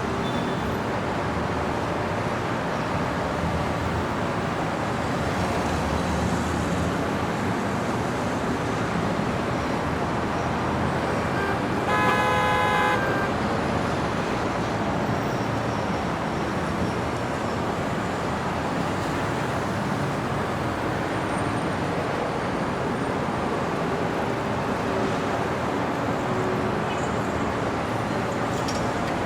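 City street traffic: a steady wash of passing vehicles and tyre noise, with a single car horn honk lasting about a second, roughly twelve seconds in.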